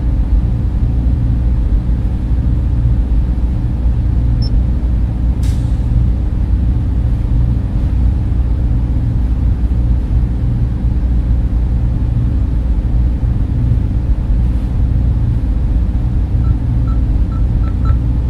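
Server room cooling fans running: a steady, dense low hum and rush with no change in speed. A faint click comes about five seconds in, and a few faint short peeps near the end.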